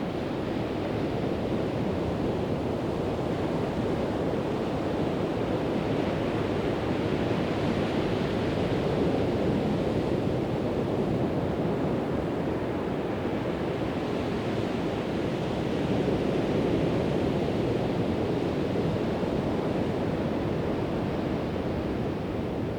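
Pacific Ocean surf breaking on a sandy beach: a continuous wash of waves that swells gently twice, about a third of the way in and again past the middle.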